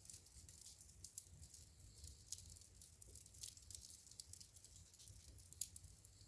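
Faint wood fire crackling in a fireplace: a steady scatter of small, irregular pops and ticks, a few sharper ones standing out, over a soft low rumble of the burning.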